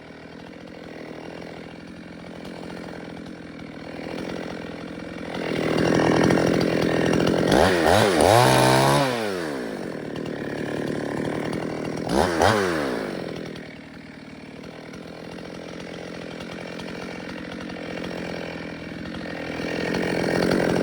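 Two-stroke chainsaw running at a low, steady speed and revved up and back down twice, a long burst about two-thirds of the way through and a short one a few seconds later.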